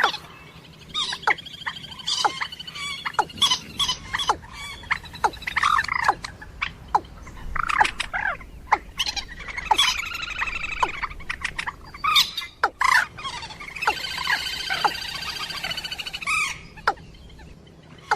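Moorhen and watercock calls: a busy run of short, sharp calls and clicks, broken by stretches of fast rattling trills.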